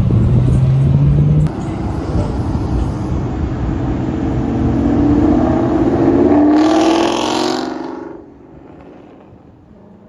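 A car engine accelerating hard, its pitch climbing as it revs. The sound drops away and fades out about eight seconds in.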